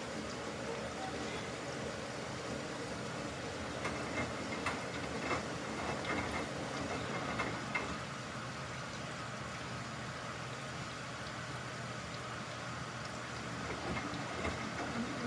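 Samsung washing machine running mid-cycle: a steady noise with a run of short knocks between about four and eight seconds in.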